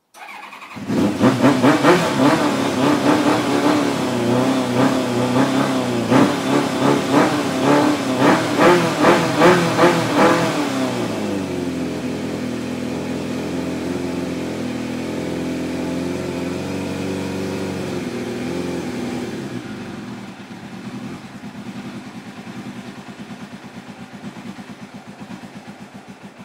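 Kawasaki Ninja 750 (ZX-7R) inline-four motorcycle engine on its first start after a carburettor cleaning: it catches about a second in and is revved repeatedly for about ten seconds, then settles to a steadier idle and runs quieter near the end.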